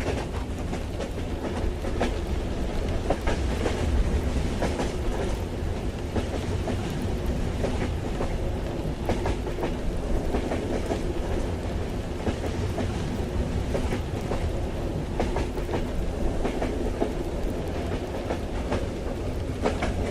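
Moving train heard from inside a carriage: a steady low rumble with the wheels clacking irregularly over the rail joints.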